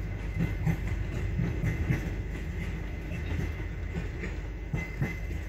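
Sleeper-train coach running on the rails, heard from inside the compartment: a steady low rumble with irregular knocks and clatter from the wheels and carriage, and a faint thin high tone over it.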